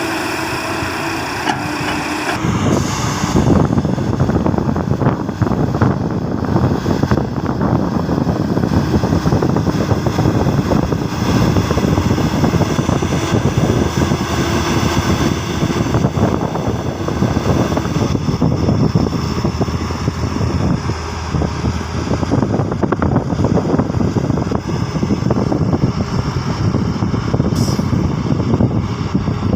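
Heavy-equipment diesel engine running at a quarry dig. About two seconds in, a steady humming tone gives way to louder, rougher engine noise that carries on, as the machine works under load.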